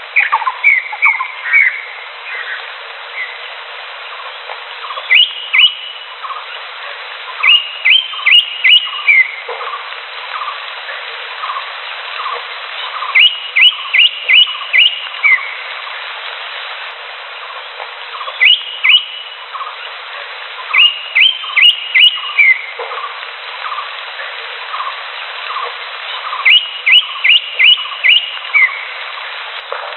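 Green leafbird (cucak hijau) singing: short phrases of three to five sharp, quick whistled notes, repeated every few seconds, over a steady hiss and fainter, regularly repeated lower chirps.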